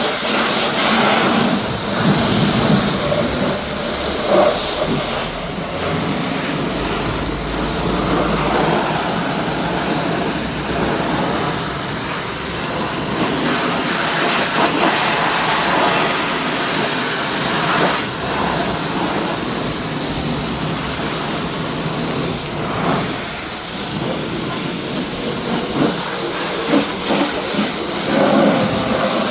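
Pressure washer spraying water onto a car's bodywork: a loud, steady hissing rush that rises and falls a little as the spray moves.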